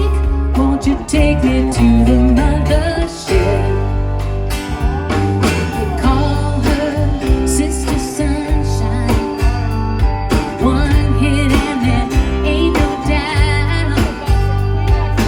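Live rock band playing an instrumental passage of the song, with guitar over bass and a steady drum beat.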